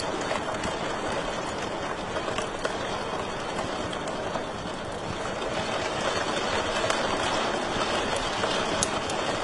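Wood fire crackling in a fireplace: a dense run of small pops and snaps over a steady hiss, with a few sharper pops standing out.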